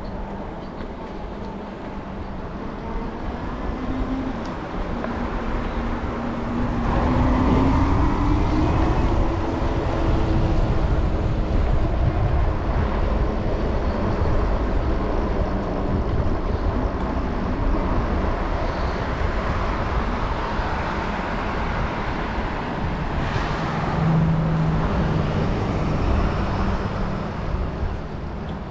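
Wind rushing over the microphone and road noise from a moving electric bike, with road traffic around it. The rush grows louder about seven seconds in, and a faint tone rises in pitch as speed picks up.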